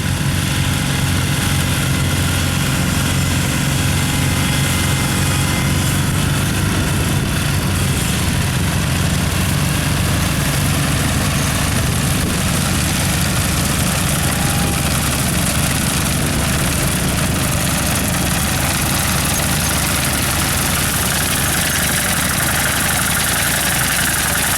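Garden tractor engine running steadily at an even speed.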